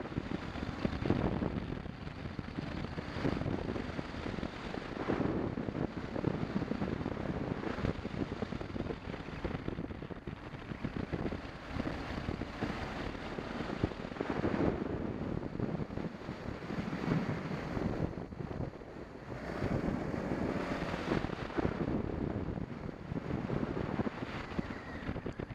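Wind buffeting the microphone of a camera on a moving BMW 650 GS motorcycle, with the engine running beneath it. The rush swells and eases every few seconds.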